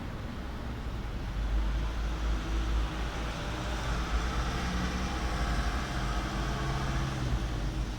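Outdoor ambience with a steady low rumble, and the sound of distant road traffic swelling and fading in the middle.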